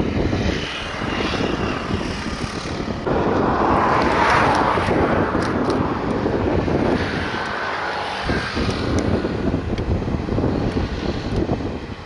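Push-pull Tze-Chiang express train passing: a steady rumble of wheels on rail that swells to its loudest about four seconds in, then eases off.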